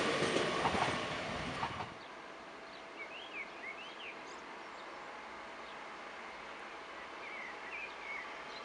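Red regional electric multiple unit running past on the rails, wheels clicking over the track, cut off suddenly about two seconds in. After that, a quieter steady outdoor background with a few birds chirping.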